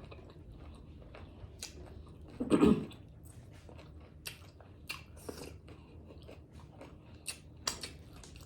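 Close-up eating sounds: a person biting into and chewing tacos, with many short crunchy, wet clicks and one louder mouth sound about two and a half seconds in.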